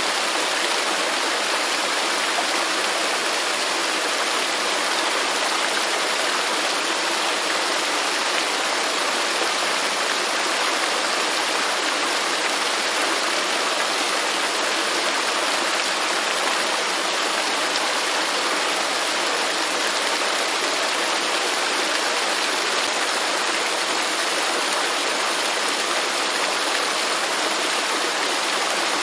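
Waterfall: a steady, unbroken rush of falling water, a continuous hiss from low to high pitch with no changes.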